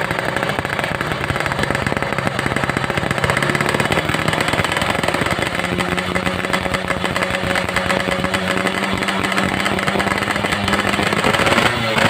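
Motorcycle engine running steadily, its pitch rising slightly about halfway through.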